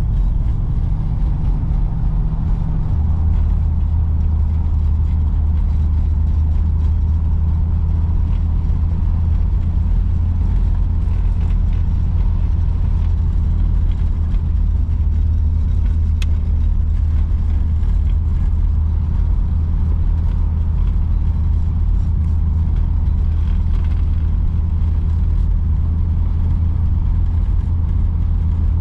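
1953 Oldsmobile Super 88 under way, its Rocket V8 and road noise making a steady low drone, as heard on a drive. The tone drops to a lower, steadier note about three seconds in.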